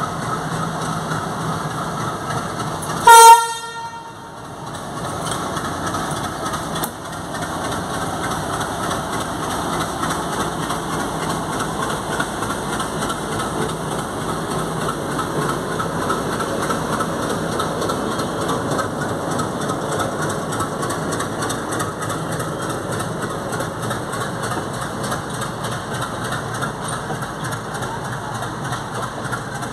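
Diesel locomotive hauling a passenger express sounds one short horn blast about three seconds in. Its engine then runs steadily as it pulls out past, followed by the coaches rolling by on the rails.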